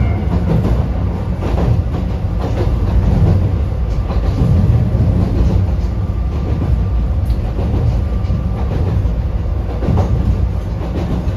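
Running noise heard inside a 762 mm narrow-gauge electric railcar on the move: a steady low rumble of wheels on rail, broken by irregular clacks and knocks from the track, with a faint steady whine underneath.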